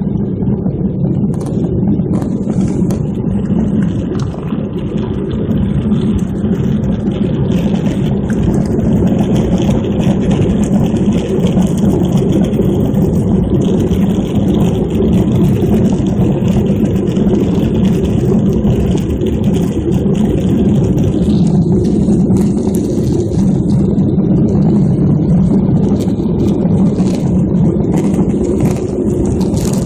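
Steady low roar of engine and airflow noise inside an airliner cabin, with only small changes in level.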